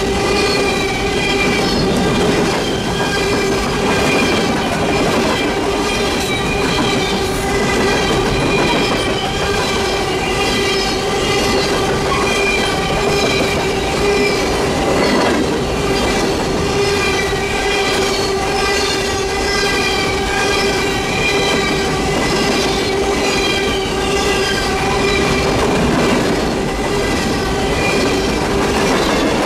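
Empty coal hopper cars rolling past close by: steel wheels on rail with a steady squeal and light clacking.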